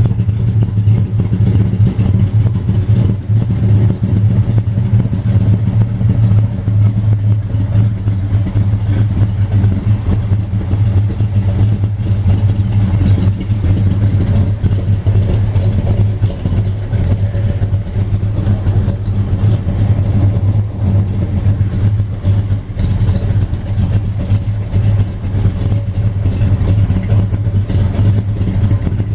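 A 1970 Dodge Charger's Mopar Performance 472 Street Hemi V8, carbureted, running steadily at a constant speed with no revving.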